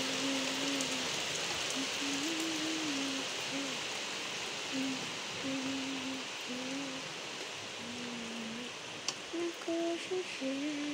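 Steady rain hiss, easing slightly, with a person humming a slow tune of short, separate notes over it. A few brief louder sounds come near the end.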